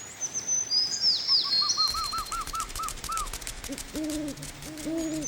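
Bird calls: high whistles that sweep downward, then a quick run of about ten rising-and-falling chirps, then lower hooting notes near the end, over a light patter of clicks in the middle.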